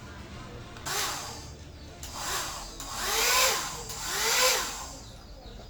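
A repaired hair dryer switched on in short bursts, about four times, its motor and fan whining up in pitch and winding down again each time; the last two bursts are the loudest.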